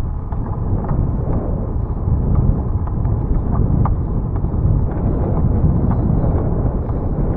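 Wind buffeting the microphone of a camera riding on a moving bicycle: a steady low rumble, with faint small clicks and rattles over it.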